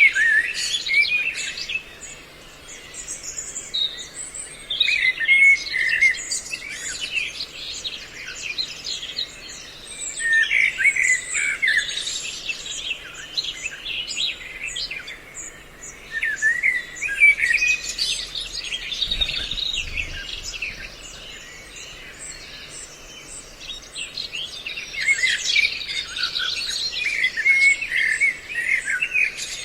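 Songbirds calling in repeated flurries of quick, high chirping notes separated by short lulls: a mixed recording of several bird calls played as a lure to draw birds in.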